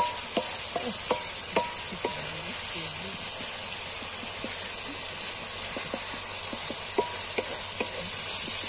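Spice paste frying in oil in a metal wok, a steady sizzle, while a wooden spatula stirs it, scraping and knocking against the pan several times in the first couple of seconds and again near the end.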